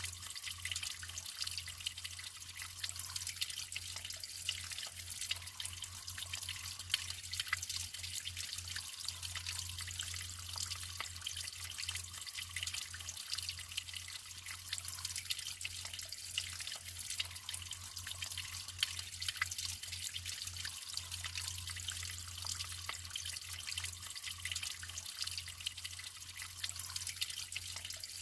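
Naturally flowing water trickling and splashing steadily, full of small drips and splashes.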